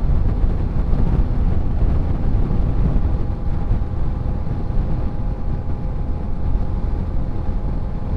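Yamaha Ténéré 700 motorcycle under way: a steady low rumble of engine and wind noise over the rider's microphone, with a faint steady whine on top.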